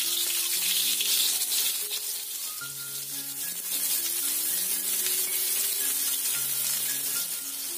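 Sliced shallots and garlic sizzling in hot oil in a wok: a steady, loud frying hiss, with soft background music underneath.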